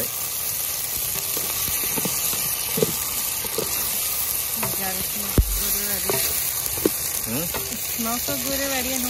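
Onions, vegetables and culantro frying in hot oil in a pot, a steady sizzle with three sharp knocks.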